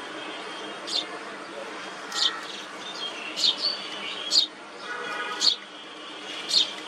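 Small birds chirping: short, sharp, high chips repeating about once a second, with a brief lower, buzzier call about five seconds in, over a steady background hiss.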